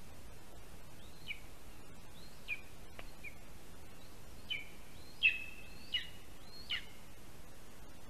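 A bird calling: about seven short, high calls, each sliding downward, spaced out at first and then coming in a quicker run, the loudest a little past halfway.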